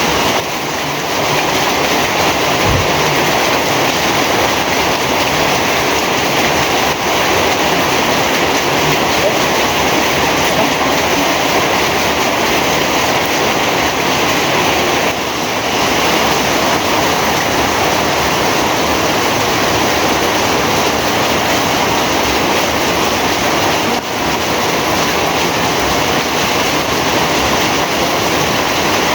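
Heavy rain pouring steadily, a loud, even hiss that dips briefly a few times.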